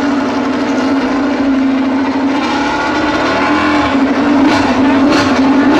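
Honda RC213V MotoGP bike's 1000 cc V4 engine running at a steady fast idle, with a couple of short, sharp blasts near the end.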